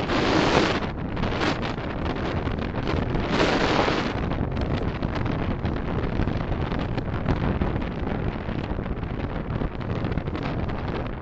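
Steady road and wind noise from a moving car, picked up by a dashcam microphone. Two louder rushes of noise come right at the start and about three and a half seconds in.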